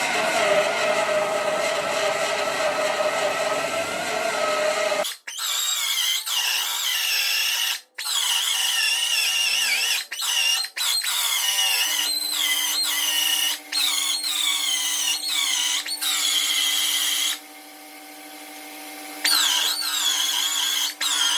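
Power tool cutting rusted sheet metal, running steadily at first. After about five seconds it comes in a series of short bursts, its high whine dropping in pitch each time it bites into the metal.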